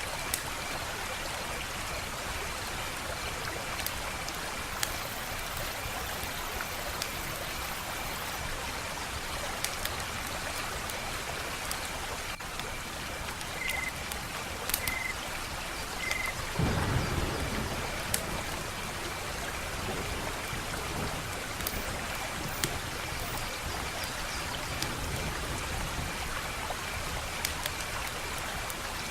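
Wood fire crackling: a steady hiss of burning with frequent sharp pops and snaps. About seventeen seconds in, a brief low rumble swells up and dies away.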